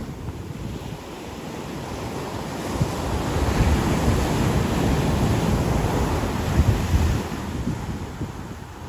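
Ocean surf washing onto a beach: the wash builds about two and a half seconds in, stays strong for several seconds, then falls away near the end. Wind buffets the microphone with a low rumble.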